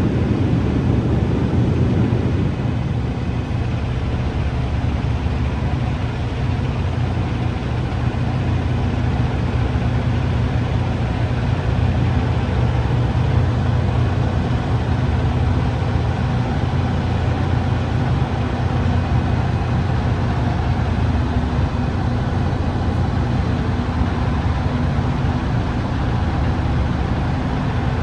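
Semi-truck's diesel engine running steadily with a constant low hum. A rushing noise fades out over the first couple of seconds.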